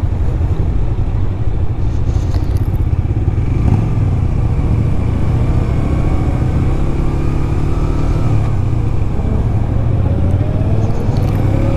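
Motorcycle engine running under way, a steady loud rumble whose pitch slowly rises and falls in the second half as the revs change.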